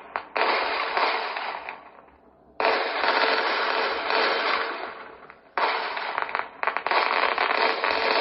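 Fireworks display: dense crackling and popping of bursting shells and fountains, in loud waves that start suddenly and die away, with short lulls about two and five seconds in.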